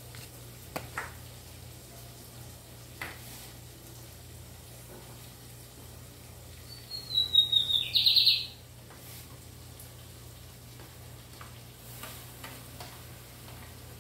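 A bird calls about seven seconds in: a short falling whistle, then a quick burst of rapid high chattering notes. A few light knocks come earlier, over a steady low hum.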